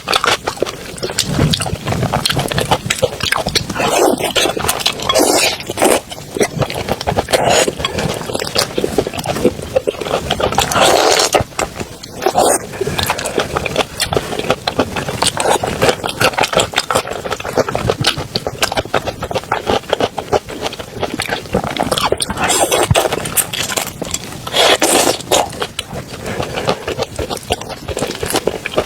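Close-miked eating sounds of someone eating seafood: wet chewing, smacking and mouth clicks in a dense run, swelling louder several times.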